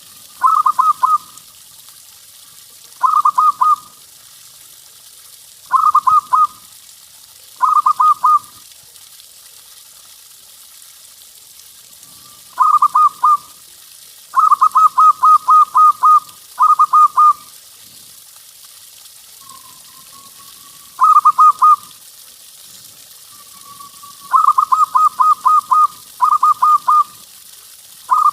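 Zebra dove (perkutut) cooing: about a dozen phrases of quick rolling notes, some short and some drawn out longer, with pauses of a second or two between them, over a faint steady hiss.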